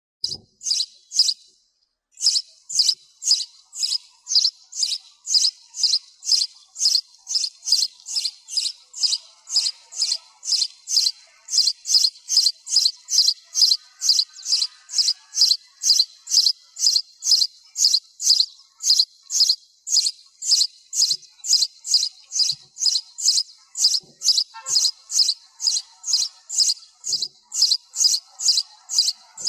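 Sparrow chirping: one short, high chirp repeated steadily about twice a second, with a brief pause near the start. Background noise has been filtered out of the recording.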